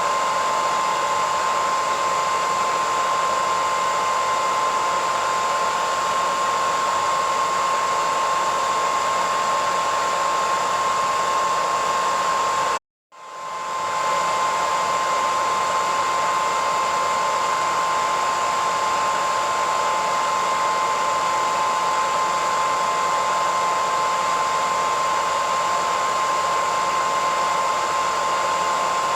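Hairdryer running steadily: an even rush of blown air with a constant high whine. About halfway through it cuts out for a split second, then swells back to full.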